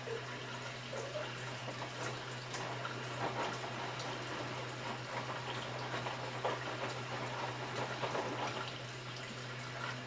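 Hotpoint washing machine on its Anti Stain Turbo cycle, water running and splashing into the drum over a steady low hum.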